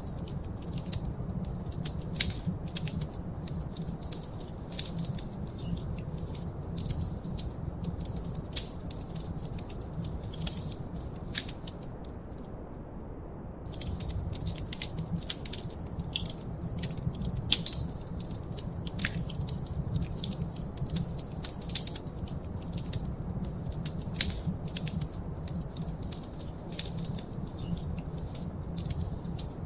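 Wood fire crackling in a fireplace: frequent irregular sharp pops and snaps over a low, steady rumble of the burning logs. Roughly halfway through, the crackling cuts out for about a second and then resumes.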